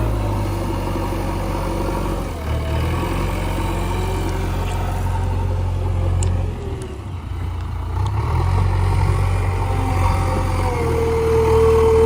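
Diesel engines of heavy machinery running, the engine note dropping and rising again as it works under load. A steady high whine comes in near the end.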